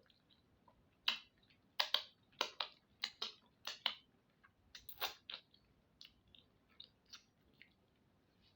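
Close-up chewing and lip-smacking while eating akpu with onugbu soup and roasted fish: a quick run of about a dozen sharp wet smacks and clicks in the first half, then fainter occasional clicks.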